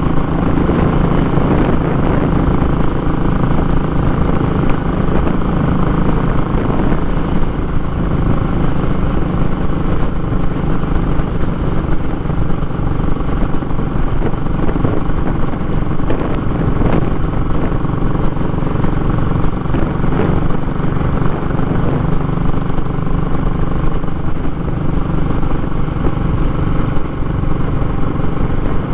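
Royal Enfield Classic 500's single-cylinder engine running steadily under way through a short muffler, a loud raw exhaust note.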